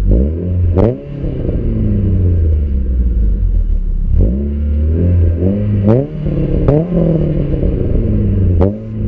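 Renault Clio 182's four-cylinder engine through a full decat Scorpion exhaust, revving as the car accelerates. The pitch climbs again and again, dropping back between pulls.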